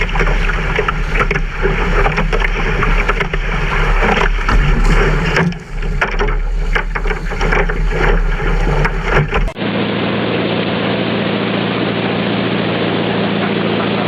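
Motorboat under way: wind buffeting and water rushing over an engine, with crackles and knocks. After a sudden cut near the end, a boat engine drones steadily.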